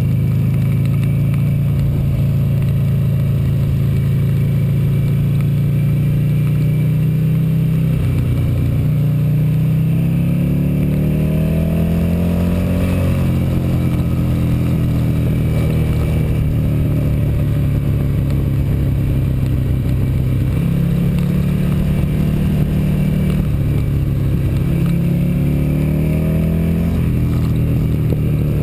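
Motorcycle engine heard from on board under hard throttle, its pitch climbing steeply about a third of the way in, dropping, then climbing again in the last few seconds, over a steady rush of wind.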